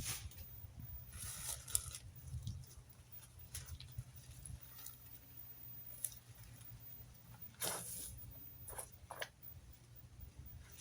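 A few short rustling, scraping strokes of yard debris being handled during cleanup after tree trimming, one about a second and a half in and a cluster near the end, over a steady low rumble.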